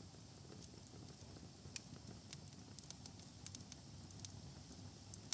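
Faint crackling of a wood fire, with scattered small pops and a soft low rumble beneath.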